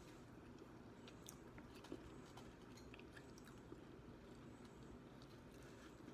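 Faint chewing and biting on a fried chicken wing, with a few scattered soft clicks from the mouth and the crisp coating.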